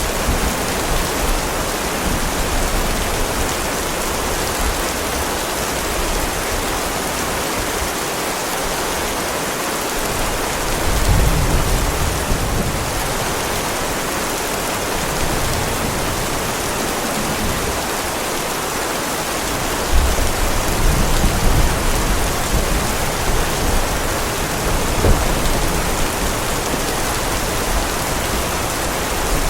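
Heavy rain pouring steadily in a thunderstorm, with low rolls of thunder rumbling about a third of the way in and again just past the middle.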